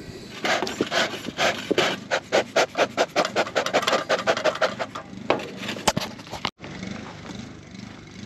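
Bee smoker bellows being pumped quickly, a fast even train of short breathy puffs, several a second, to get the freshly lit fuel smoking. The puffing stops about five seconds in, and after a sudden cut only a faint steady background noise remains.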